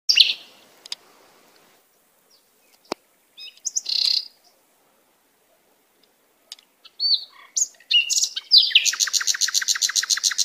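Birds chirping: a few separate high calls, then about 9 seconds in a fast trill of rapidly repeated notes. A single sharp click about three seconds in.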